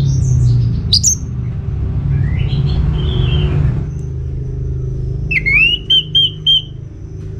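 Orange-headed thrush singing: a string of varied whistled and chirping phrases, the loudest a rising whistle that breaks into quick repeated notes about five seconds in. A steady low rumble runs underneath.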